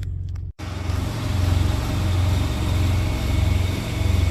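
Diesel engine of a semi truck running, a steady low rumble with a hiss. It cuts out briefly about half a second in and comes back louder.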